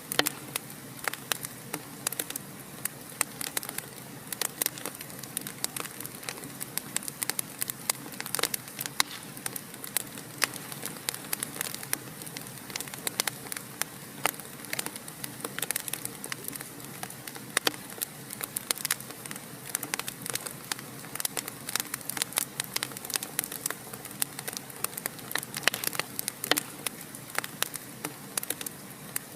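Wood fire crackling in a fireplace: a steady low hiss of burning with many sharp, irregular pops and snaps throughout.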